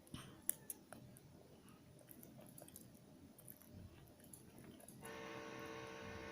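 Faint chewing with small sharp clicks; about five seconds in, a steady hum with several steady tones starts up and keeps going.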